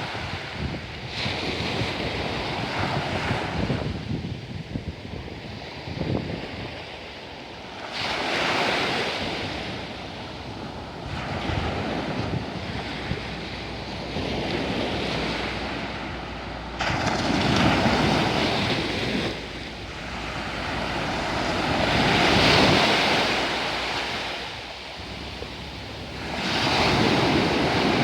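Sea waves breaking and washing onto the shore, the noise swelling into a louder surge every few seconds, with wind rumbling on the microphone.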